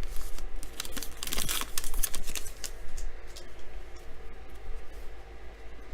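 Baseball trading cards being handled and flipped through in the hands: a quick run of dry clicks and flicks, thick for the first few seconds and thinning out toward the end.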